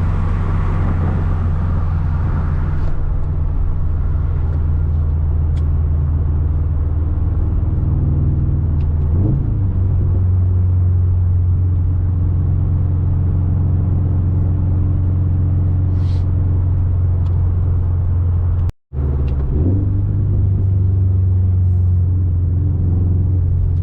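Inside the cabin, the 2021 Subaru WRX STI's turbocharged 2.5-litre flat-four with an RK Titanium titanium catback exhaust hums low and steady at casual cruising speed. About three seconds in, the wind and road hiss drops away as the windows go up, leaving the muted exhaust rumble. There is a brief rise and fall in engine pitch about nine seconds in, and the audio cuts out for an instant near the end.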